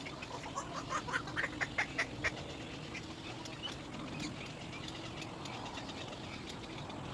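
Little egret chick crying for its parent: a quick series of about ten short, high cries in under two seconds, which then stop.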